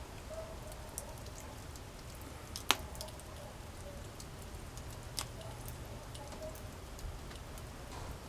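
Wood campfire crackling, with scattered sharp pops from the burning wood, the loudest about three seconds in and another about five seconds in.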